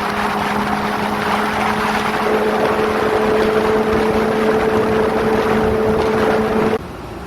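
Kawasaki ZX-25R's 249 cc inline-four through an aftermarket Prospeed exhaust, running at a steady, fairly high engine speed under way, with heavy wind rush over it. The sound drops off suddenly near the end.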